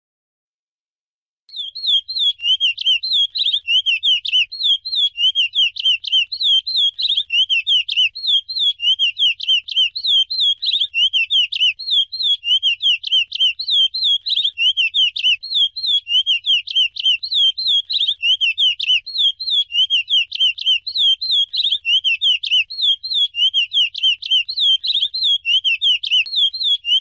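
Curió (lesser seed-finch) singing the Icoaraci song type: a long, unbroken run of fast, clear whistled notes, starting about a second and a half in.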